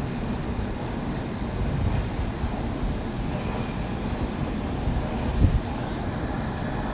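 A train running out of the station, a steady low rumble, with one short thump about five and a half seconds in.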